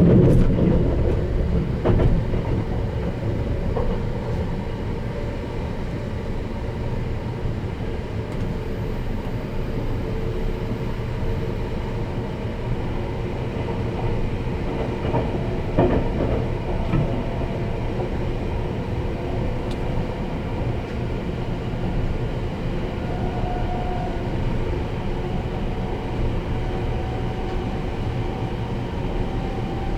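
Sunrise Express (285 series electric sleeper train) running at speed, heard from inside the carriage: a steady low rumble with a few sharp knocks from the track, including one near the start and one about halfway through.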